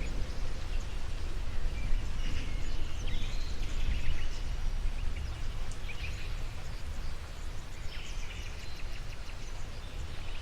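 Outdoor nature ambience: a steady low rumble with birds chirping here and there and a short trill near the end.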